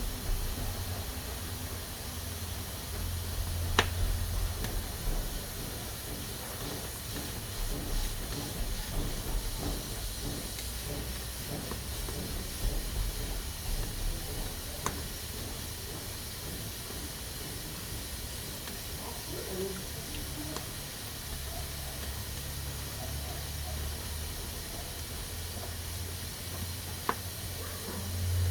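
Pressure cooker hissing steadily as steam escapes from its valve under pressure, with a few faint clicks.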